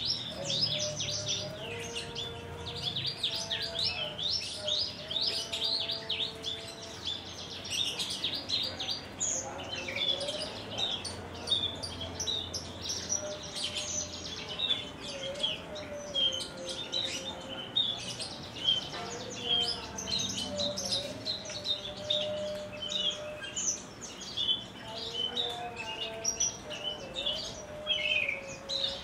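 Javan bush lark (branjangan) singing: a long, unbroken run of rapid, high chirps and trills, with fainter, lower held whistled notes beneath.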